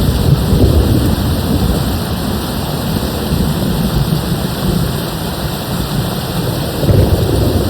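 Steady rain with low rolling thunder, the rumble swelling near the start and again about seven seconds in.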